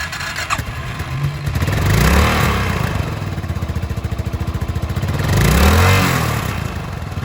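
Suzuki Boulevard S40's 650cc single-cylinder engine idling with an even pulsing beat, revved twice, each blip of the throttle rising and falling back to idle.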